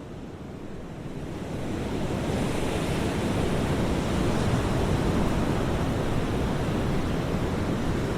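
Pacific Ocean surf with wind, a steady rushing that swells about two seconds in and then holds.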